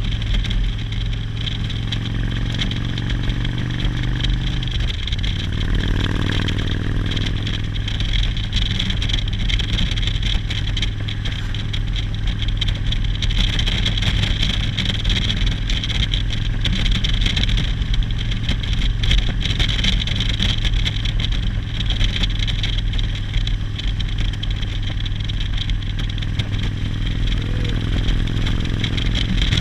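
Motorcycle engine running steadily under way, with a constant rush of wind and road noise. The engine note drops about five seconds in, then holds steady again.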